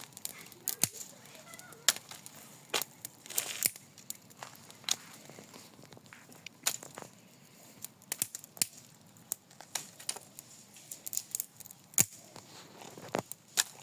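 Small campfire of partly green wood crackling, with irregular sharp pops and snaps spread across the whole stretch.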